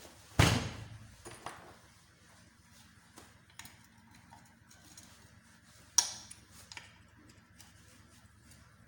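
Two sharp knocks, one just after the start and one about six seconds in, with lighter clicks and taps between them: tools and engine parts being handled during motorcycle engine disassembly.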